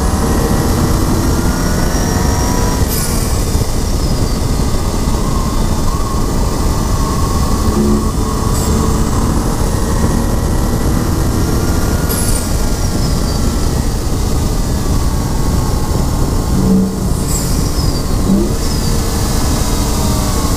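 2011 BMW 135i's turbocharged 3.0-litre inline-six under hard track driving. Its pitch repeatedly climbs and then drops as it is run through the gears and corners, over steady wind and road noise.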